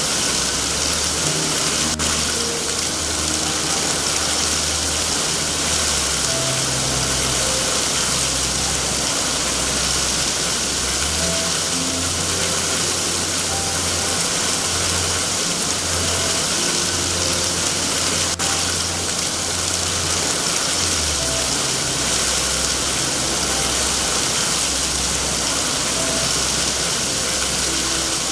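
Steady, even hiss of heavy rain, with soft slow background music underneath: low held notes changing every second or two and a few sparse higher notes.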